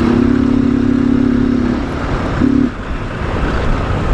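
Motorcycle riding on the road with wind rushing over the microphone; a steady low tone holds for nearly two seconds, then returns briefly about two and a half seconds in.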